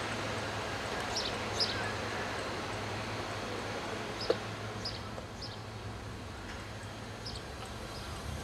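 Short high chirps of small birds, a few at a time, over a steady low hum and background noise, with one sharp click about four seconds in.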